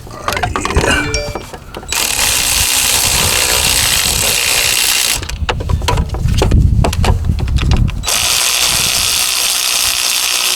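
Power tool run in two long, steady stretches of about three seconds each, with clicks and knocks between them, while backing out the alternator's mounting bolts.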